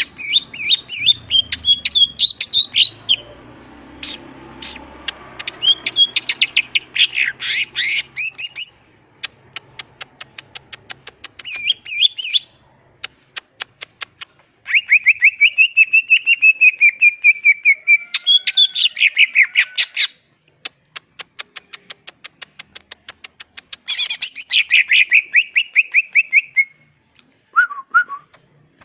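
Greater green leafbird (cucak ijo) singing loudly: a varied run of rapid chirps and whistled trills, about ten notes a second, switching between higher and lower phrases with short breaks between them.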